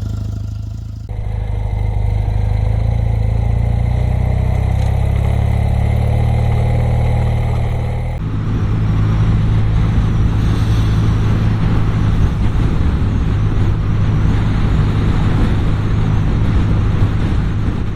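BMW R100RS motorcycle's air-cooled flat-twin boxer engine running, with a steady low note. It gets louder about a second in and again about eight seconds in, sounding rougher from then on.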